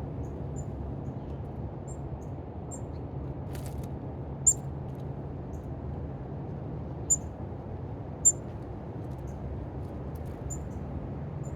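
Small birds giving short, high-pitched chirps scattered throughout, with three louder chirps through the middle, over a steady low background rumble.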